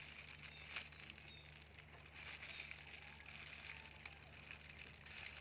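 Faint crackling and creaking of a tough durian husk being pried open, with a sharper click about a second in.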